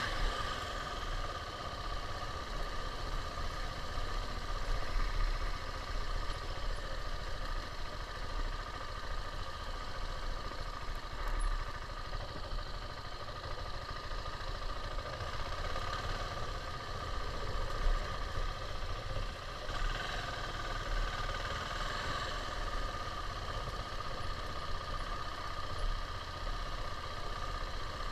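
KTM 690's single-cylinder engine running steadily.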